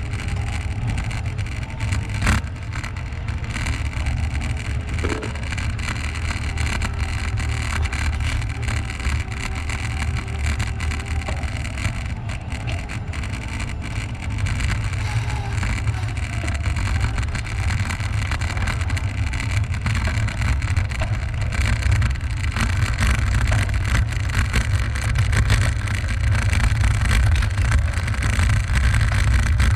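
Wind rumbling on the microphone of a camera riding along on a moving bicycle: a steady low rumble that grows a little louder near the end, with a couple of light clicks.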